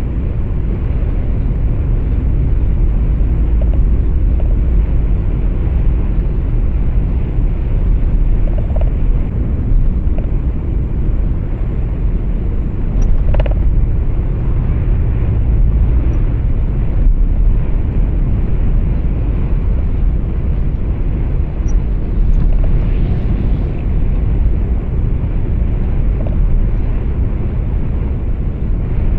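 Steady low rumble of a truck's engine and road noise heard inside the cab while driving. There is a brief faint click about halfway through.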